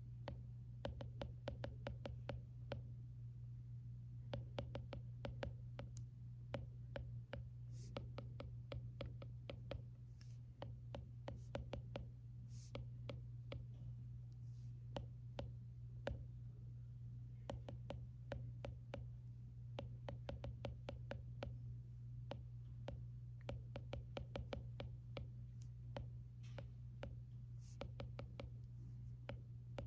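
Stylus tapping and writing on an iPad screen: many quick, light clicks and taps in irregular runs, over a steady low hum.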